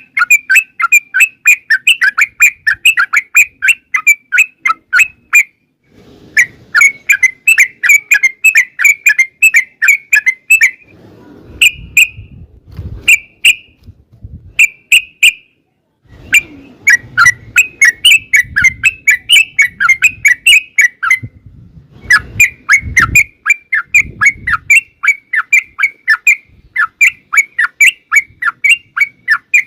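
Yellow-vented bulbul (trucukan) song: long runs of rapid chattering notes, about four or five a second, lasting several seconds each and broken by short gaps, with a few brief separate phrases around the middle.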